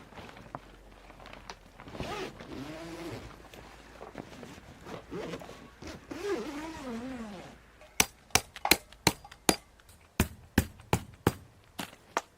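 A quick run of about a dozen sharp knocks, roughly three a second, starting about eight seconds in and stopping near the end. Before it, two brief voiced sounds rise and fall in pitch.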